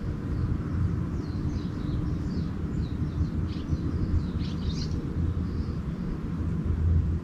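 Small birds chirping in a quick flurry of short high notes for a few seconds through the middle, over a steady low rumble.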